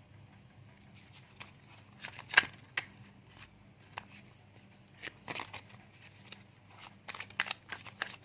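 Tarot cards being handled on a table: scattered soft clicks and paper rustles, with a sharper snap a little over two seconds in and quicker handling near the end.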